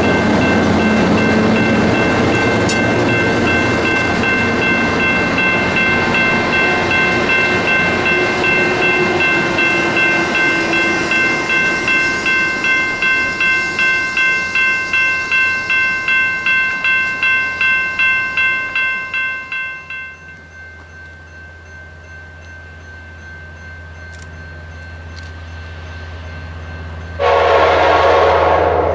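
A train running past on the rails, with a bell ringing about twice a second over it; the train noise fades and the bell stops about 20 seconds in. Near the end a locomotive air horn sounds one loud blast.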